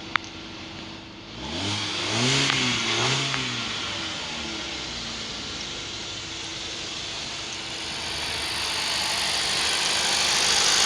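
2017 Kia Rio 1.4-litre four-cylinder petrol engine catching about a second and a half in, revved twice, then settling to a steady idle before running gradually louder near the end. It runs without obvious faults and was tested good.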